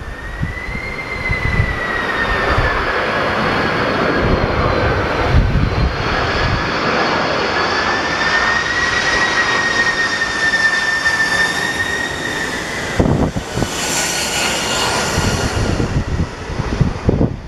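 Boeing 767 turbofan engines on final approach: a loud, steady high whine that drops in pitch near the end as the jet passes. Gusty wind buffets the microphone throughout.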